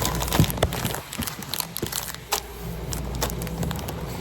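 Groceries and plastic bags being handled at a self-checkout: scattered knocks, clicks and rustling over a steady low store hum.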